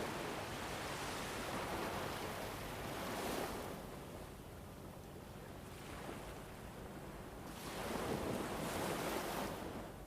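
Ambient winter wind rushing in slow gusts: it swells at the start, eases off after about three seconds, and surges again near the end.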